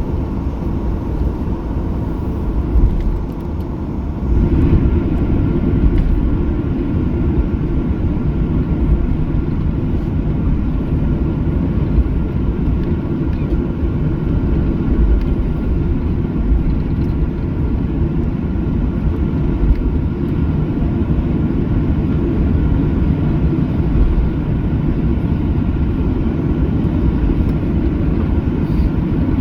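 Steady low rumble inside the cabin of a Boeing 737-800 taxiing, with a faint steady hum above it; the rumble grows a little louder about four seconds in.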